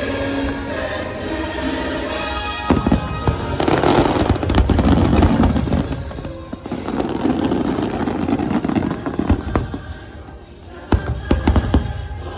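Fireworks going off over the show's music: a choir-backed soundtrack first, then a run of loud bursts from about three seconds in, and a rapid crackle of sharp pops near the end.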